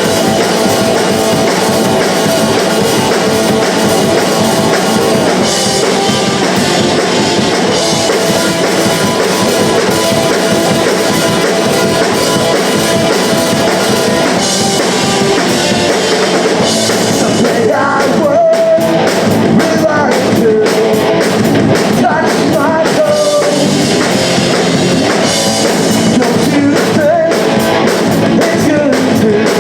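Punk rock band playing live and loud: drum kit, guitars and bass, with singing.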